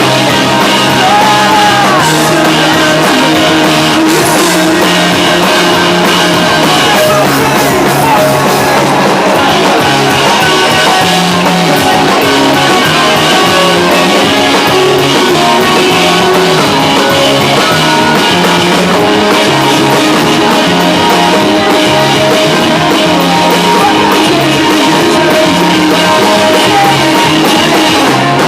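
Rock band playing live and loud: electric guitar and drum kit, with a singer's voice in the mix.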